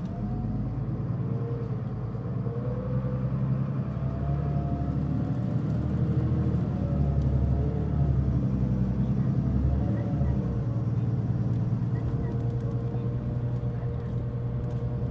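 Mitsubishi Fuso Aerostar LKG-MP37FK city bus heard from inside, pulling away with its diesel engine under fairly firm throttle: a heavy low rumble with wavering whining tones that rise and fall. The bus gives off a marked abnormal noise, considerable even from outside.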